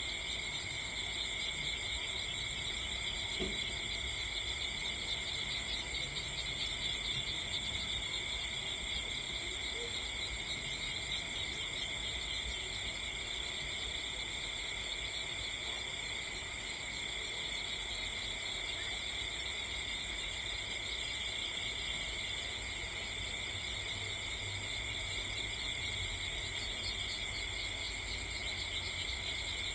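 Steady chorus of insects, crickets or similar, trilling without pause at several high pitches at once.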